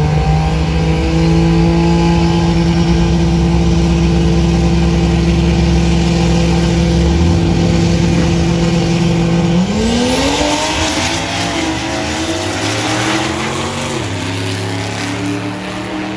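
Turbocharged Toyota 4Runner and a second car on a drag strip. An engine is held at steady revs on the starting line, then launches about ten seconds in. The revs climb and drop back through several upshifts as the cars pull away down the track.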